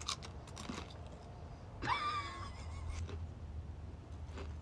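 Quiet chewing of potato crisps, with a few faint crunches over a low steady hum. About two seconds in there is a brief, wavering high-pitched sound.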